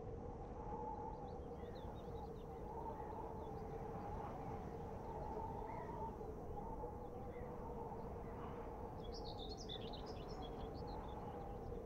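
Small birds chirping now and then over a steady background hum that carries a faint, slowly wavering tone, with a quick run of chirps about nine seconds in.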